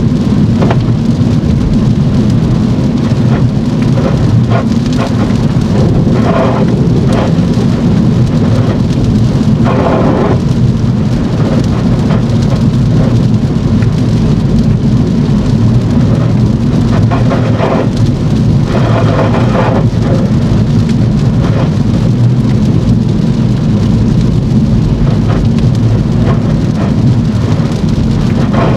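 Heavy rain on a moving car, over a steady loud low rumble of road noise, with a few brief louder swishes now and then.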